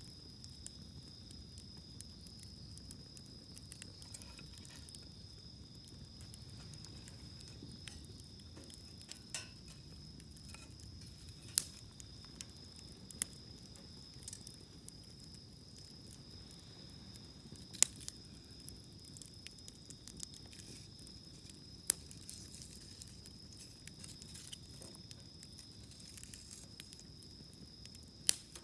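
Wood campfire burning with a low steady rush and scattered crackles, about four sharp, loud pops from the firewood. A steady high-pitched trill runs underneath.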